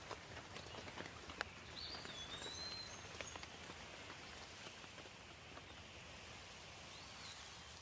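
Faint rain ambience with scattered drops falling, while a bird gives a few short whistled chirps in the first few seconds and one more near the end.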